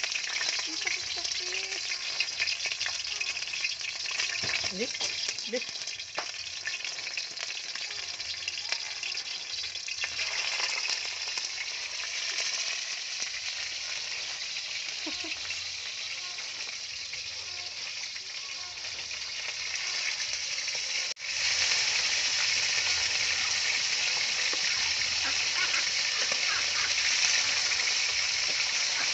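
Chicken wings frying in hot oil in a steel wok, a steady sizzle. After a brief drop about three-quarters of the way through, the sizzle comes back louder and denser.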